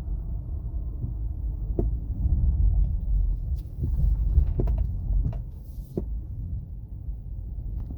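Steady road and drivetrain rumble heard from inside a 2017 Acura MDX on the move, with about half a dozen short sharp knocks, most of them in the middle of the stretch.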